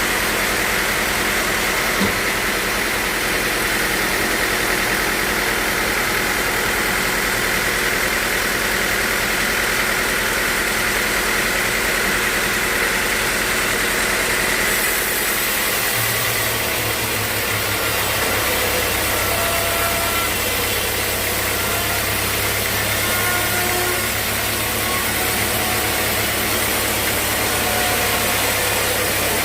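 Sawmill machinery running steadily with a continuous loud noise and a high whine. About sixteen seconds in, the whine fades and a deep steady hum takes over.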